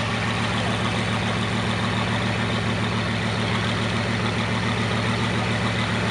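A vehicle engine idling with a steady, low hum that does not change.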